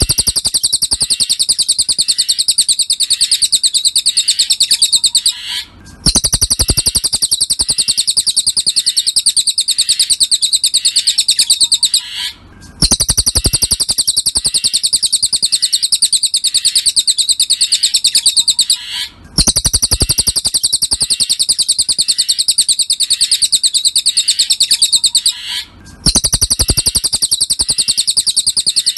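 Cililin bird song played as a masteran training recording: a rapid, high-pitched chattering trill. The same phrase repeats in stretches of about six seconds, with a brief break between each one.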